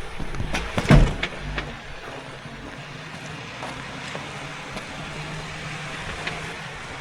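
Jeep driving slowly over a rocky trail, its engine running low and steady, with several sharp knocks and one loud clunk about a second in as the underside or suspension meets the rocks.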